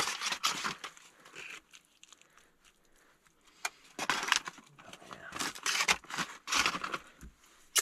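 Several short rustling, crinkling bursts of handling, with a faint click partway through and a sharp click near the end, as spinach is taken from its packaging and put onto a baked potato in foil.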